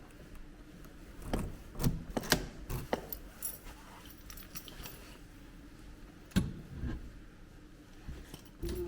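A run of light clicks and knocks, like small hard objects being handled, bunched about one to three seconds in, with a single sharper knock a little past six seconds and another near the end.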